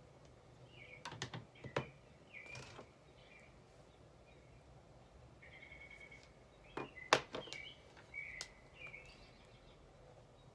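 Birds chirping in short repeated calls over a faint steady hiss, with clusters of sharp taps about a second in and again around seven seconds in, the loudest a single sharp tap.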